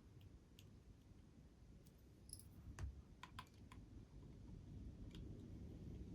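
Faint clicks and light taps of small metal parts and a small screwdriver while the cylinder group is screwed back onto a Märklin HR 800 N model locomotive. There are a handful of separate ticks, most of them in the middle.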